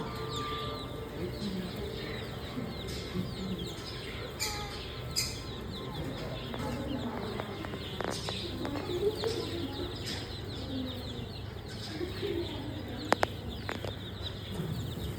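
Many small birds chirping and peeping in quick, short calls throughout, over faint distant voices, with two sharp clicks near the end.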